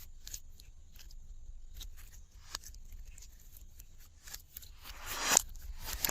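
Glossy slime being worked by hand: scattered sticky clicks and crackles, with one louder squelch building to a sharp pop about five seconds in.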